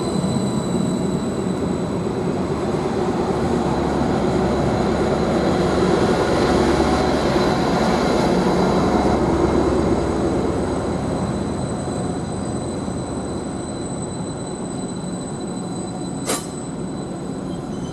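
Greater Anglia Class 755 bi-mode unit running in on its diesel engines and slowing into the platform, loudest around the middle and easing off as it comes to rest, with a steady high whine throughout. A single sharp click sounds near the end.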